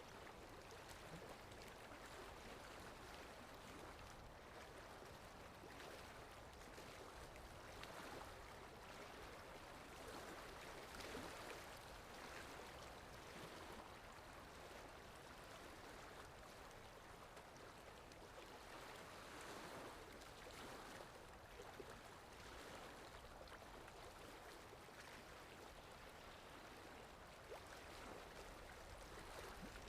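Faint sea waves washing, a steady hiss of water that swells and eases slightly every few seconds.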